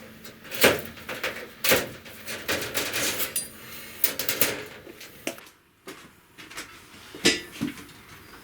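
Metal parts and tools being handled and set down: irregular clanks and knocks with brief metallic ringing, the loudest a little under a second in and again about seven seconds in, with a short lull just before six seconds.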